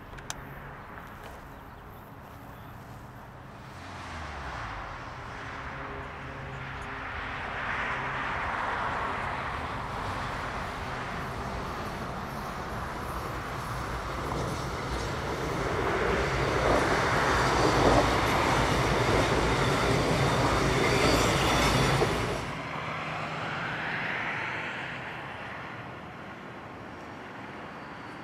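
Sprinter Siemens Desiro diesel multiple unit approaching and passing close by on curved track, its diesel engine running under power and its wheels rumbling on the rails. The sound grows steadily louder to a peak about three-quarters of the way in, then cuts off suddenly and is replaced by the same kind of train sound, quieter and farther off.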